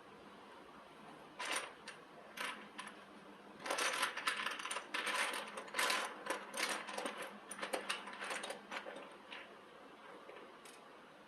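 Irregular sharp metallic clicks and rattles, like small metal parts or a hand tool being handled. A few single clicks lead into a dense run from about four to eight seconds in, then they thin out.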